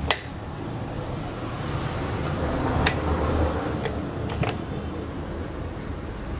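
A few light metal clicks as a motorcycle gearbox's shift forks are fitted with their guide pin onto the selector drum: one sharp click at the start, another about three seconds in, and a couple of fainter ticks after it, over a steady low hum.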